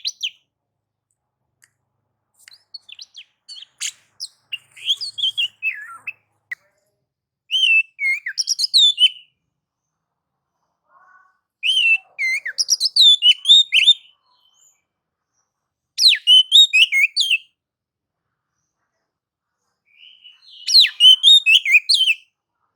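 Oriental magpie-robin (kacer) singing in about six bursts of rapid, high, sweeping and chattering phrases, each a second or more long, with short pauses between them: the excited song of a bird in display, as used to set other kacer singing.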